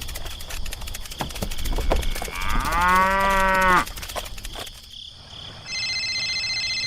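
A cow moos once, a long call of about a second and a half that rises at its start, over a crackling background. Near the end a steady, high, electronic-sounding tone begins.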